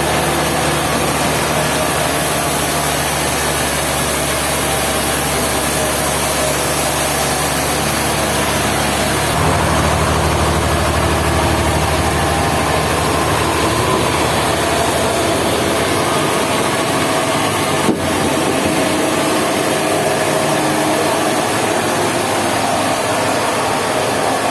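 Sawmill machinery running steadily. Its low engine hum shifts about nine seconds in and falls away around sixteen seconds, and there is a single sharp click near eighteen seconds.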